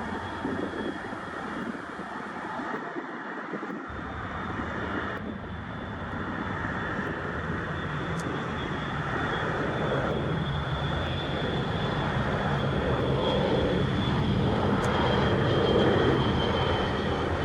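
Jet airliner engines running at a busy runway, a continuous rumble with a steady high whine that grows louder through the second half.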